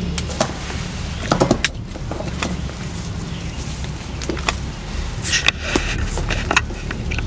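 Rain falling on a fabric hunting ground blind: a steady low rumble with many scattered taps and clicks, more of them about five seconds in.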